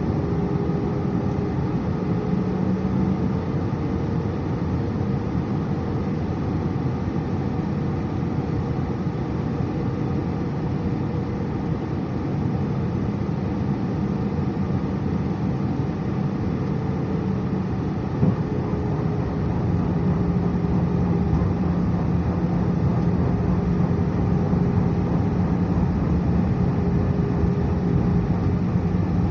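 Steady airliner cabin noise inside an Airbus A319: engine and airflow noise with a low, even engine hum. A single short knock sounds partway through, and the noise grows a little louder soon after.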